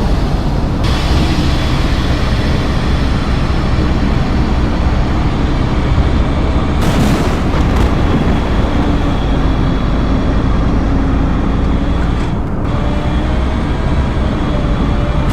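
Strong wind buffeting the microphone in a loud, steady rumble, with a faint hum under it that steps up in pitch near the end.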